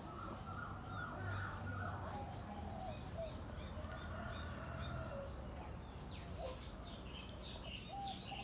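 Birds singing in the background: quick runs of repeated high chirps together with lower whistled phrases that slide up and down, over a faint low steady hum.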